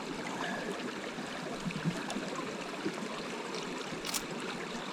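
Stream water running steadily with an even rush. A brief click sounds about four seconds in.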